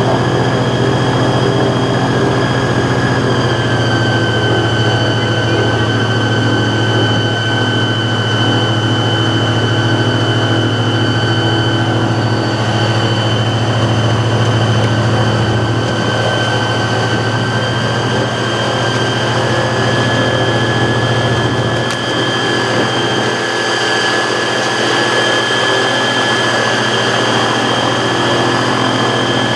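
Tour boat's engine running steadily at speed: a loud low hum with a high whine that dips slightly in pitch about three seconds in and rises a little again past the middle.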